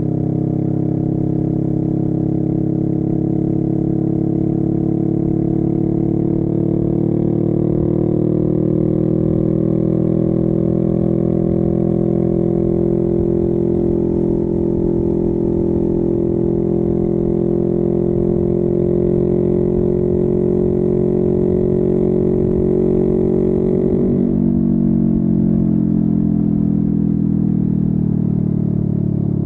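Honda Rebel 500 parallel-twin engine through a Vance and Hines upsweep exhaust, pulling steadily in gear with its pitch slowly rising. About 24 seconds in the throttle closes and the engine note falls away as the bike slows.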